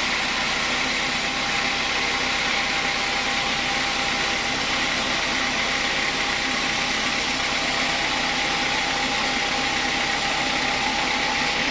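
Sawmill saw machinery running steadily, a constant mechanical drone with a light whine over it.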